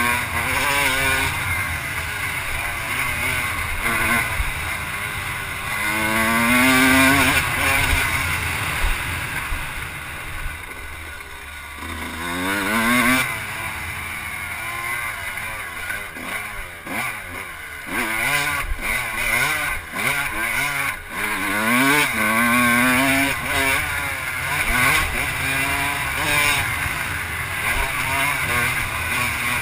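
Off-road vehicle engine riding a motocross track, revving up and easing off again and again so its pitch rises and falls every few seconds. It goes quieter for a moment about ten seconds in.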